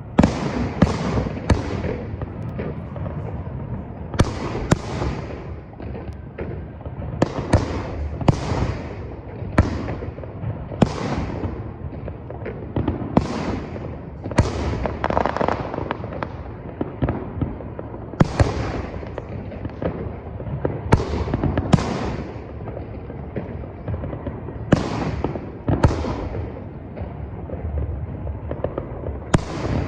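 Fireworks display: a rapid, irregular series of sharp bangs, roughly one every second, each trailing off in an echo.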